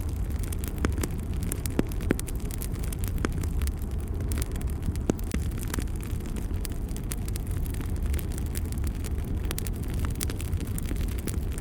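Fire burning in a fireplace: a steady low rumble with frequent sharp little crackles and pops.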